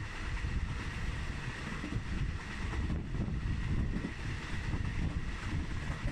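Wind buffeting the microphone held out of a moving passenger train's window, over the train's steady running noise.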